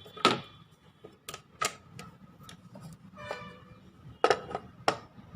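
A series of sharp clicks and knocks of hard objects being handled, about seven in all, some with a brief ringing, and a short pitched ring a little past halfway.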